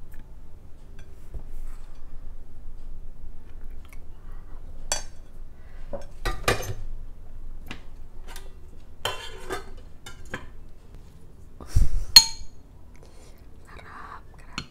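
Scattered clinks and knocks of dishes and utensils at the table during a seafood meal. The loudest clink, near the end, rings briefly like glass or ceramic.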